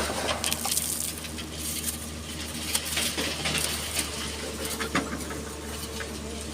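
Excavator diesel engine running steadily under a patter of many small clicks and rattles: sand and gravel shifting and pouring as the bucket digs and loads.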